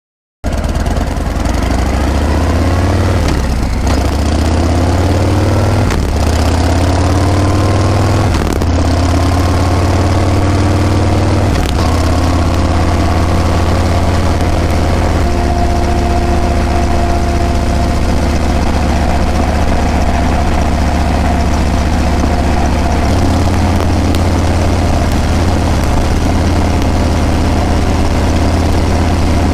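Harley-Davidson Breakout's V-twin engine and exhaust on the move. It accelerates through the gears, the pitch rising and dropping back at each of about four shifts, then settles into a steady cruise.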